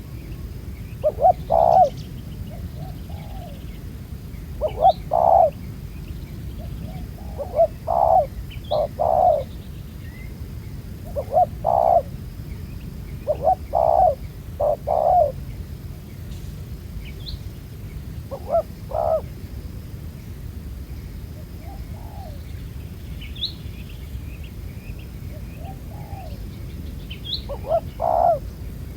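Spotted doves cooing: short phrases of two or three low coo notes repeated every few seconds, with small birds chirping faintly and high in the background.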